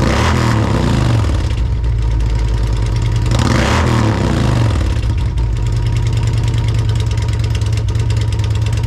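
Harley-Davidson Road Glide V-twin breathing through Reinhart Slimline dual pipes with 4.5-inch DBX mufflers, revved up twice and then settling into a steady idle.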